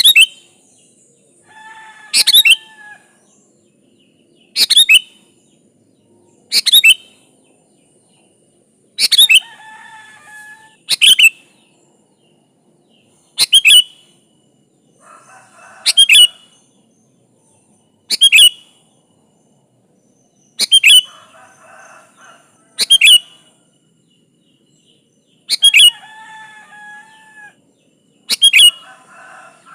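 Sooty-headed bulbul (kutilang) singing vigorously: loud, sharp calls repeating about every two seconds, with softer, bubbling warbles in between.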